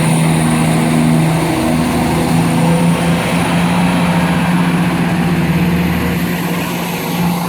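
A passenger train running close by: a steady low engine-like hum with level tones, over a rush of noise, with a faint high whine.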